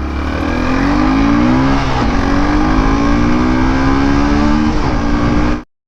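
Hero Hunk 150R's single-cylinder engine accelerating hard from a standstill, its pitch climbing and dropping at upshifts about two seconds in and again near five seconds. The sound cuts off abruptly just before the end.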